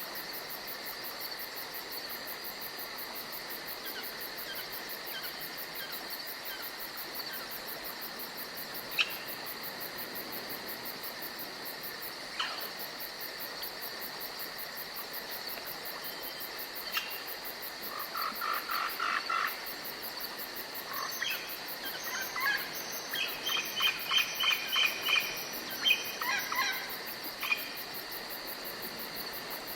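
Forest ambience: a steady high chirring of crickets and other insects. Short chirping calls come now and then, and in the second half there are several rapid, repeated chirp series.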